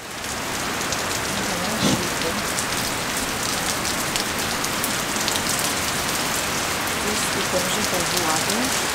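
Heavy rain falling steadily, a dense even downpour, with a single thump about two seconds in.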